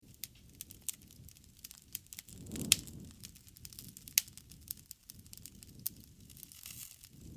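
Wood fire crackling, with many sharp pops and snaps over a low rumble of flame. The loudest pop comes about two and a half seconds in, with a brief surge of the flame sound under it, and another sharp pop follows a second and a half later.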